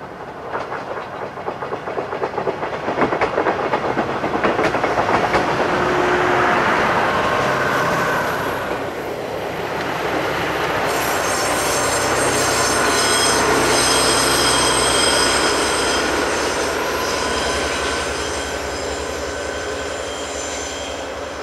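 Diesel-hauled sightseeing train passing close by: wheels clicking quickly over rail joints for the first few seconds, then high wheel squeal on a curve over the low running of the DE15 diesel locomotive as the train moves away.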